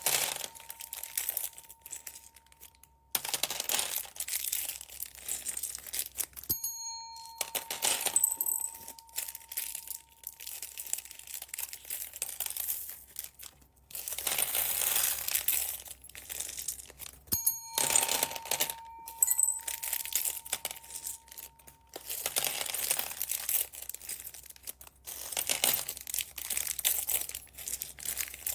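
Plastic bags of beads crinkling and rustling as they are handled and opened, in stretches with sudden breaks. A short bell-like chime rings twice, about a quarter of the way in and a little past halfway.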